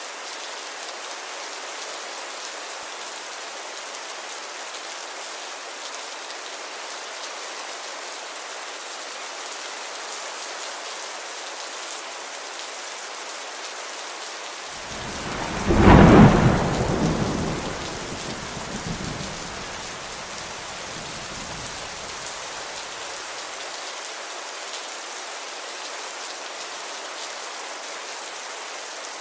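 Steady rain falling, with one clap of thunder about halfway through that rumbles away over several seconds.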